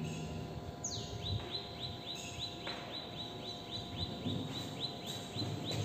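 A bird calling: one downward-sliding note about a second in, then a steady run of short, high chirps, about four a second.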